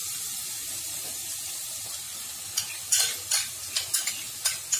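A paste of poppy seeds, onion and ginger-garlic sizzling in hot oil and ghee in a kadai. From about halfway a utensil stirs and scrapes it in several short strokes.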